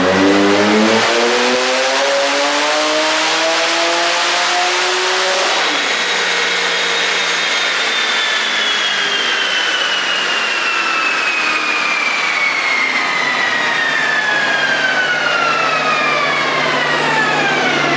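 Twin-turbo flat-six of a Porsche 997.1 Turbo with 68mm billet turbochargers at full throttle on a chassis dyno, its pitch climbing steadily until it lets off suddenly about five and a half seconds in. After that, a long smoothly falling whine as the spinning wheels and dyno rollers coast down, with the engine running low underneath.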